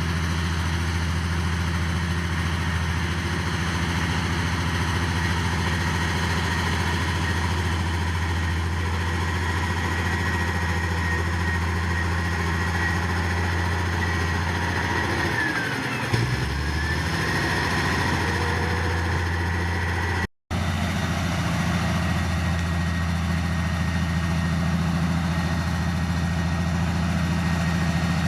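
Heavy diesel engine of earthmoving equipment running steadily with a deep drone and a thin whine above it. Midway the whine glides down and back up as the engine briefly slows under load and recovers. A little after that the sound drops out for a split second.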